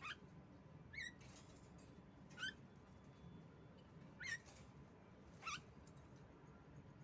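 Female Javan myna (jalak kebo) calling: five short, sharp calls a second or two apart, each a quick sweep in pitch.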